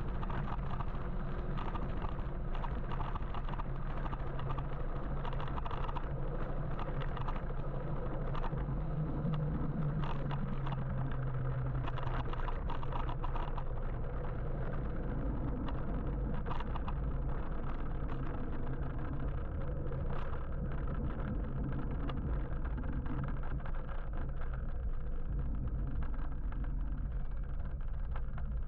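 Steady rumble of road and traffic noise heard from an electric motorbike riding through city traffic, with a louder low hum swelling about nine to twelve seconds in.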